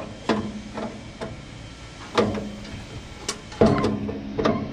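Metal burner tube being worked into a Weber Genesis gas grill's firebox: a series of sharp metallic clanks and knocks, each ringing briefly, the loudest about three and a half seconds in.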